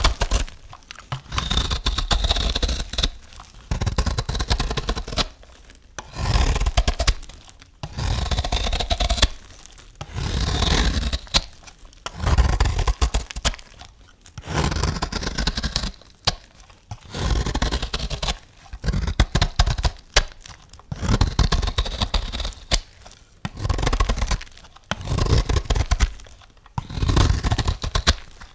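A knife cutting through bar soap, one scraping, crackling slice after another at about one every two seconds.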